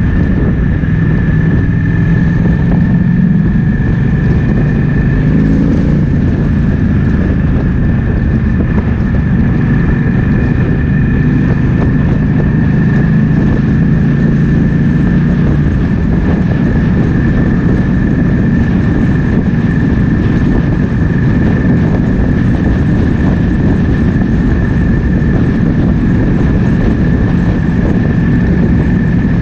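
Triumph Speed Twin 1200's 1200 cc parallel-twin engine running at speed, with heavy wind buffeting the microphone; the engine note shifts pitch a few times, around three seconds in and again between about twelve and sixteen seconds in. A steady high whine runs under it throughout.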